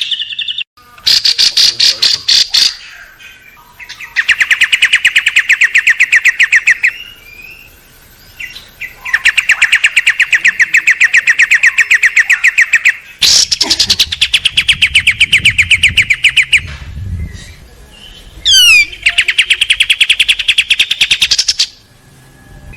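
Small songbird singing bursts of very fast, rattling trills, each a couple of seconds long and repeated about five times, with a quick down-slurred whistle between the last two.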